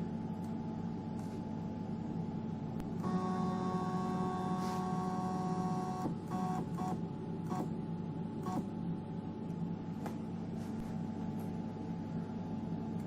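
EMCO Compact 5 lathe's stepper motors whining as the tool is jogged in toward the workpiece. There is one continuous move about three seconds in, lasting about three seconds, then several short jog steps, over a steady hum.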